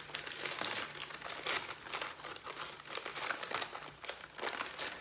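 A takeout delivery bag crinkling and rustling as it is opened and rummaged through, with dense irregular crackles.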